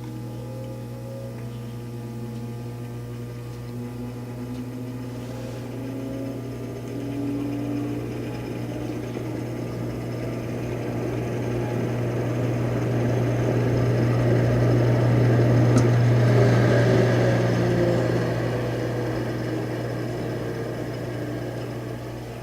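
Vintage Leigh bathroom exhaust fan's motor running on a test run: a steady hum with tones rising slowly as it spins up from a weak start, and air noise swelling to its loudest near the middle, then easing again.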